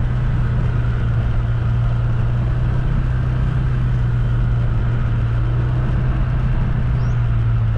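Steady engine and road drone of a moving vehicle, a constant low hum with no change in pitch.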